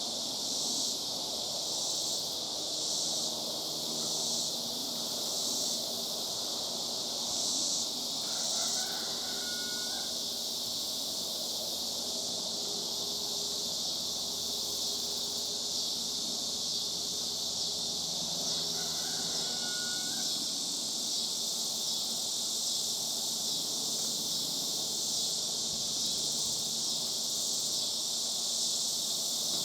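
Loud, steady chorus of cicadas, pulsing about twice a second at first and then running on as an even, high buzz. Two short, falling whistled bird calls sound over it, about nine and nineteen seconds in.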